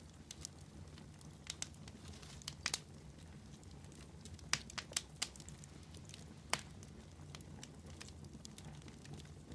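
Campfire crackling: burning wood giving off sharp, irregular pops over a low steady hum, with a cluster of louder pops in the middle.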